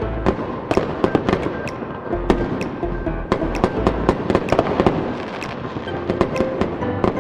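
Fireworks bursting and crackling in quick succession over music with held low bass notes.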